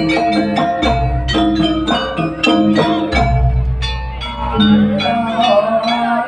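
Live East Javanese jaranan ensemble music: quick, ringing struck notes of metallophones and percussion strokes over a sustained deep bass.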